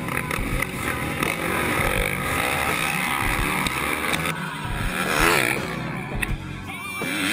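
Motocross motorcycle engines revving, their pitch rising and falling over and over.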